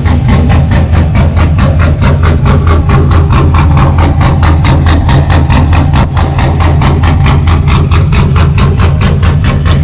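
A truck engine idling through newly fitted performance mufflers, a steady deep exhaust rumble pulsing at several beats a second.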